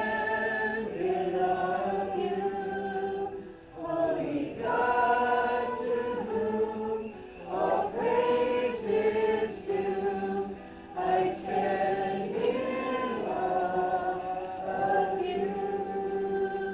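A congregation singing a worship song together, holding long notes with short breaks between phrases.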